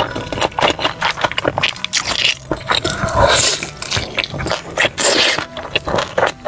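Close-up crunching of someone biting and chewing crispy fried chicken: a dense run of sharp crackles, with two longer crackling bites about a third of the way in and near the end.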